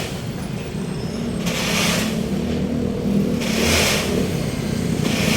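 Road traffic: a steady low engine hum, with a rushing hiss from passing vehicles swelling up about every two seconds.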